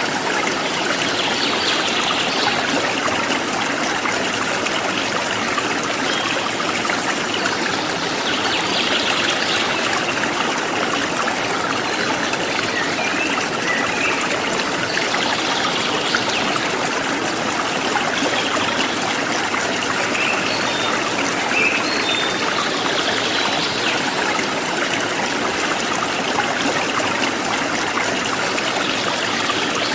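Forest stream flowing steadily, a continuous rush and trickle of water, with a few faint, short, high bird chirps here and there.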